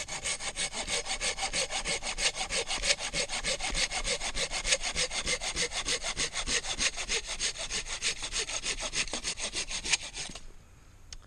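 Silky Gomboy 270 folding pruning saw cutting through a piece of firewood in a fast, steady run of rasping strokes that stops abruptly about ten seconds in as the cut goes through.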